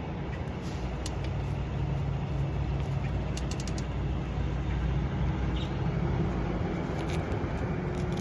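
Phantom 85cc two-stroke motorized-bicycle engine running steadily with no exhaust fitted.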